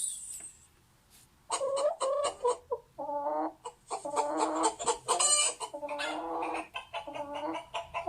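Hen clucking and cackling: a quick run of short clucks mixed with a few longer, drawn-out calls, starting about a second and a half in.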